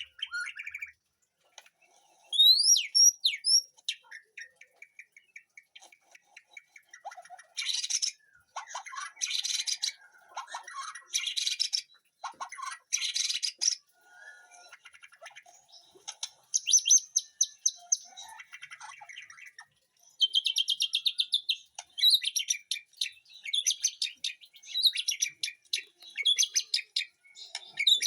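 White-rumped shamas in an aviary singing and calling: a few quick rising whistles, then a run of buzzy chattering phrases and rapid ticking trills with short pauses between.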